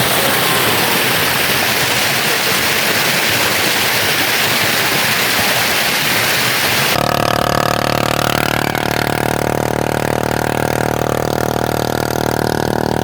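A steady rushing noise, then an abrupt cut about seven seconds in to an engine running steadily at idle.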